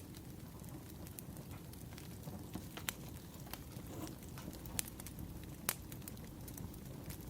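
Wood fire crackling: a steady low hiss of burning firewood with scattered sharp pops and snaps, the loudest about three, five and nearly six seconds in.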